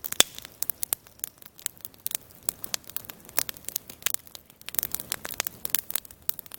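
Wood campfire crackling, with irregular sharp pops and snaps; one louder snap comes just after the start.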